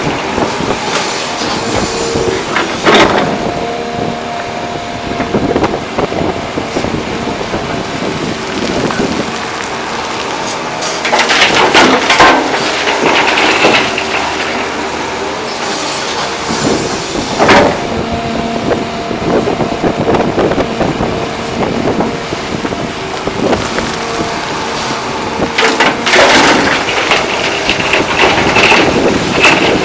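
Volvo EC380D excavator's diesel engine running steadily under hydraulic load, its note rising and falling with the work. Louder rushing crashes of rock and dirt pour into a truck bed a few times, the longest near the middle and another near the end.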